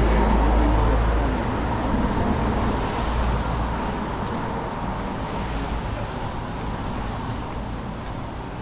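City street traffic: a motor vehicle's low engine rumble fades over the first few seconds as it moves away, leaving steady traffic noise.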